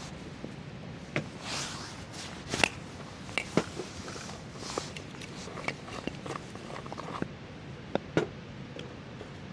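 Irregular light knocks, clicks and soft rustling, as of things being handled or someone moving about, over a steady background hiss.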